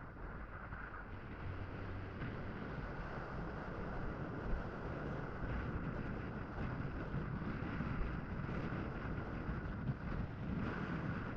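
Wind rushing over a tape-covered microphone on a moving 2019 Honda CMX500, with the bike's parallel-twin engine running underneath; the noise grows louder over the first few seconds, then holds steady.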